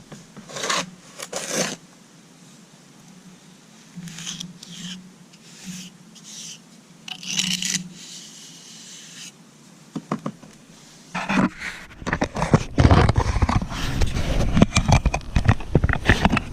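Hand trowel scraping and pressing dry cement patching mortar into a concrete step, in short separate strokes. About eleven seconds in it turns to a louder, busier run of scraping and knocking.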